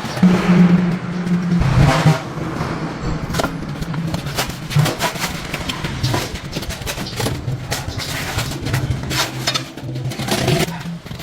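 An engine running steadily, louder for the first couple of seconds, with scattered clicks and knocks.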